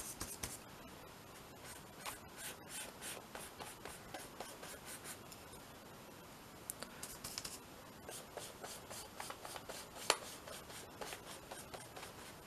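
Faint scratchy rubbing strokes of a tool working gesso over a paper journal page, with one sharper click about ten seconds in.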